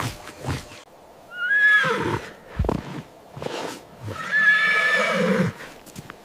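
Horse whinnying twice, a short call about a second and a half in and a longer one around four seconds in. A few thumps come at the start and one more between the calls.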